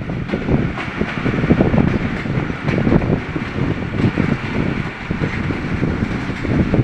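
Passenger train coaches running on the rails, heard from an open coach doorway: a steady rolling rumble of the wheels, mixed with wind noise.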